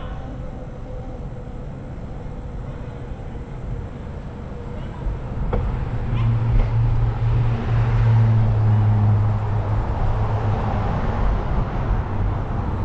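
Street traffic heard from a moving bicycle: a motor vehicle's low engine hum grows louder and passes from about six seconds in, over a steady low rumble of road noise.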